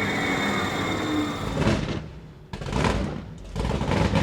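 A train running: uneven mechanical noise that dips briefly about halfway, then picks up again.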